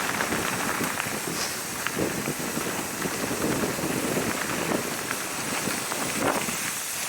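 Mountain bike rolling down a dirt trail: tyres crunching over dirt and stones, with small rattles and knocks from the bike and wind noise on the microphone.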